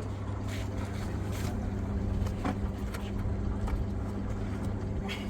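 A motor running steadily with a constant low hum, with a few light clicks or knocks over it.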